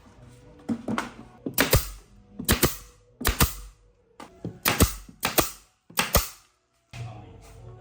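A run of sharp knocks on wood, most coming as quick doubles, about seven of them spaced under a second apart. They stop about seven seconds in, and a faint low machine hum follows.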